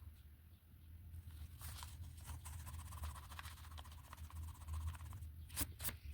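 Drawing strokes scratching across paper for about four seconds, then two sharp clicks near the end, over a steady low hum.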